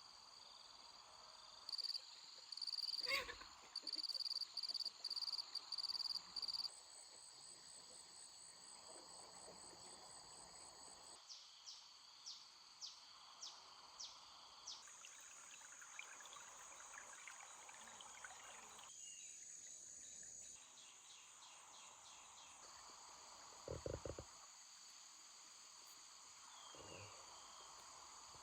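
Insects chirping and trilling in high-pitched, evenly repeated pulses, loudest in a run of short bursts during the first several seconds. A faint knock comes about three seconds in, and a short low thump later on.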